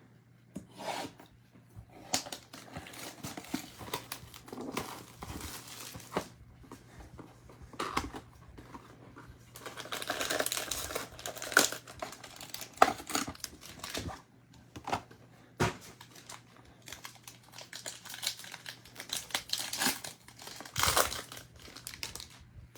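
Plastic wrapping on a box of trading cards and its packs being crinkled and torn open, with irregular crackling and short rips that bunch up about halfway through and again near the end.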